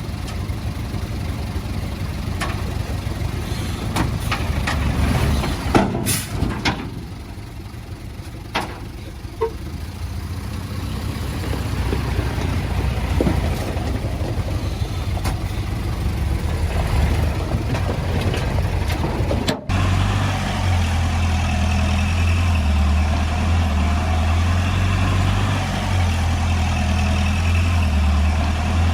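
Heavy diesel earthmoving machinery running: a bulldozer and dump truck at work, with a continuous low engine drone and scattered sharp knocks and clanks in the first third. After an abrupt break about two-thirds of the way in, the engine drone is louder and steadier.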